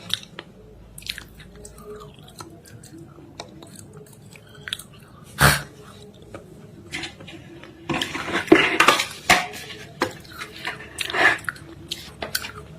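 Close-up chewing and biting of something dry and crunchy, with scattered crackles. There is a loud crack about halfway through and a cluster of crunches a few seconds later.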